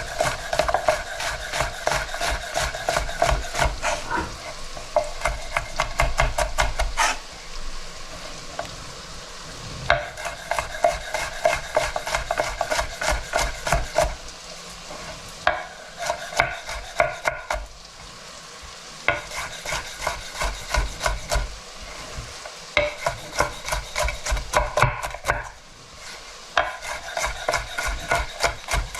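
A utensil stirring and scraping a pan of onions and bacon frying in lard. The strokes come in quick runs with short pauses, the pan rings with each stroke, and there is a sizzle underneath.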